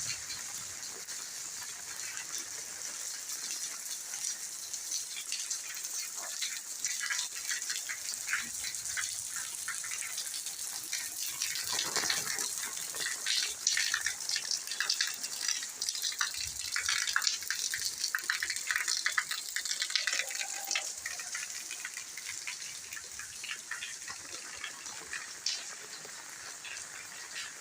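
Rain falling, with many close drops hitting hard surfaces over a steady hiss of water; it grows louder about twelve seconds in and eases again after about twenty seconds.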